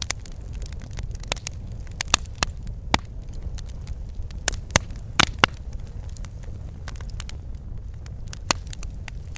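Wood fire crackling in a fireplace: irregular sharp pops and snaps over a steady low rumble, with a cluster of louder pops about five seconds in.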